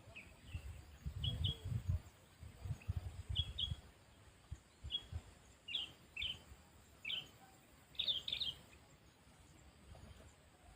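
Sooty-headed bulbul (kutilang) giving short, high chirps, often in quick pairs, with a quick cluster of them about eight seconds in. Low muffled rumbles sit underneath in the first few seconds.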